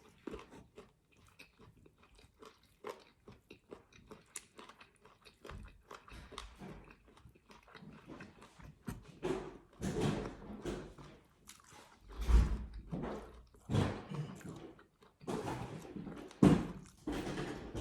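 A person chewing and biting into spicy chicken feet, with wet mouth clicks and crunches of skin and cartilage; the bites grow louder in the second half, with a dull knock about two-thirds of the way through.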